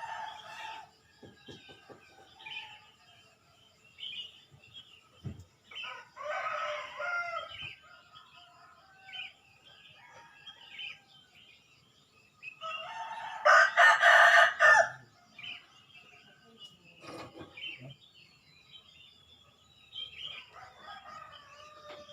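Roosters crowing: one loud crow a little past halfway, with two fainter crows near the start and about a quarter of the way in, and small birds chirping between them.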